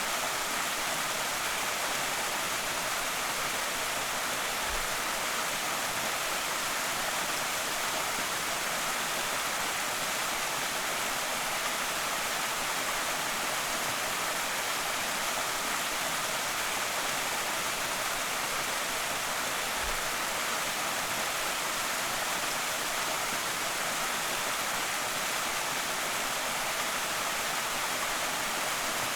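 Small creek waterfall rushing steadily, an even hiss of falling water, with two faint low thuds about five and twenty seconds in.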